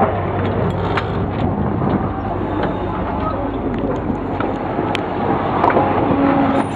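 Narrow-gauge train running uphill, heard from an open carriage platform. A steady rumble of the train on the move, with a low drone from the Lxd2 diesel locomotives hauling at the front and occasional clicks from the wheels and rails.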